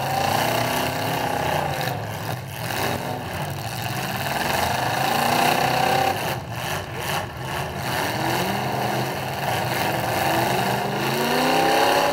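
Demolition derby car engines revving hard, their pitch swelling up and falling back again and again, with a long rising rev near the end.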